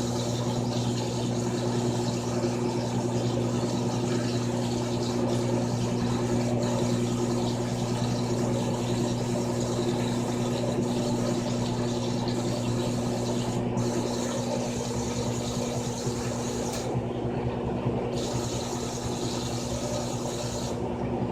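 Frigidaire Gallery Series top-load washing machine (FWS777GH50) running, its motor giving a steady low hum under an even mechanical whir.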